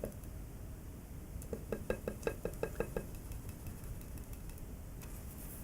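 Rhythmic knocking from a container of yeast and hydrogen peroxide being shaken by hand, about six knocks a second. One run ends right at the start and a second runs from about one and a half to three seconds in.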